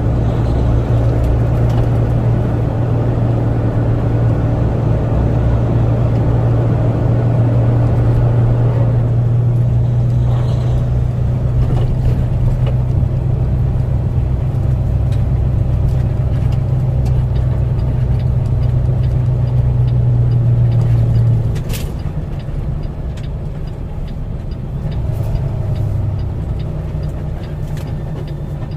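Flatbed truck's engine running as it drives, a steady low drone with road noise. About three quarters of the way through, the drone drops away and the sound gets quieter.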